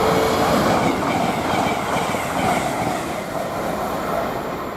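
Passenger train running through the station on the main line, a loud rush of wheels on rail that is loudest at first and fades as it goes away.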